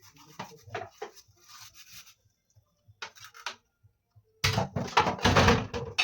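Cleaning and handling noises: scattered light clicks and knocks, then a loud rough rubbing and scraping that starts about four and a half seconds in and lasts about a second and a half.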